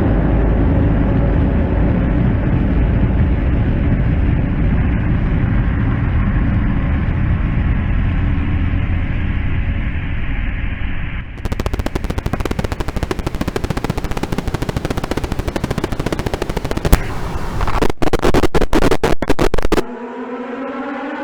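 Sound-effects collage of war: a heavy low rumble, then from about halfway a rapid rattle of machine-gun fire with several louder shots near the end, followed by an air-raid siren beginning to wind up with a rising wail.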